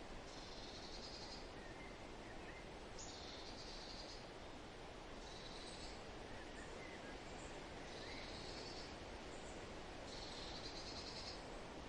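A songbird repeating a short, high, rapid trill five times, one every two to three seconds, with a few fainter chirps between, over a steady rustling hiss of wind in the trees.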